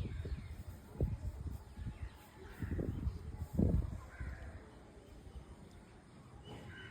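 Birds calling a few times with short, harsh calls, over several brief low bursts of noise.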